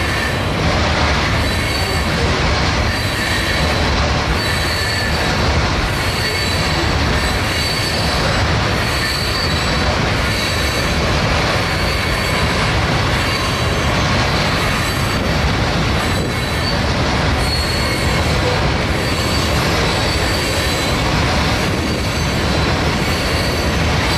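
A long train of coal hopper cars rolling steadily over a steel girder bridge, wheels squealing in thin high tones over a continuous rumble. The squeal and clatter swell and fade in a beat about once a second as the cars pass.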